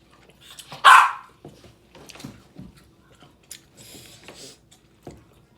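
Close-up eating sounds from a seafood boil: scattered small chewing and shell-handling clicks, with one loud, short, sharp sound about a second in.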